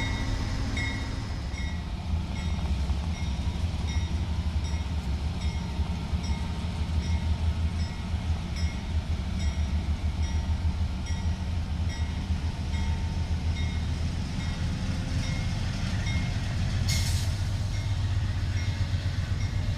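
A train running on the tracks with a heavy, fluttering low rumble. A high short tone repeats a little more than once a second throughout, and there is a brief hiss about seventeen seconds in.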